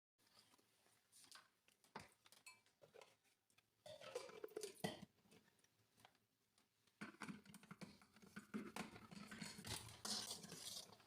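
Faint handling sounds: scattered light clicks and soft rustling, busier about four seconds in and again over the last four seconds.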